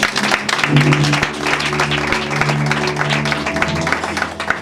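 Church music with held keyboard-like chords, under a congregation clapping and applauding.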